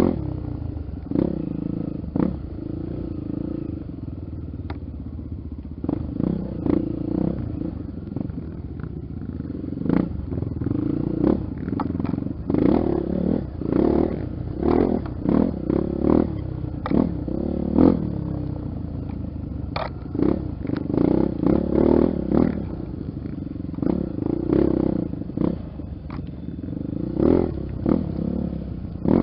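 Honda XR 250 Tornado trail bike's single-cylinder four-stroke engine running with repeated short bursts of throttle, over many knocks and rattles from the bike on rough ground.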